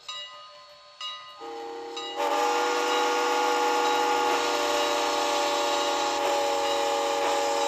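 HO-scale model locomotive's sound decoder sounding a long, steady multi-note chime blast: it starts softly about a second and a half in, swells loud just after two seconds and is held to the end.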